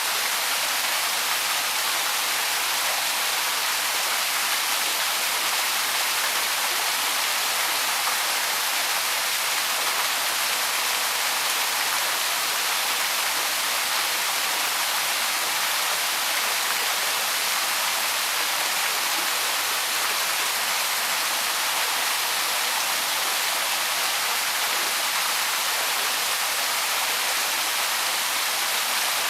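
Small waterfall splashing steadily, a constant even rush of falling water with no breaks.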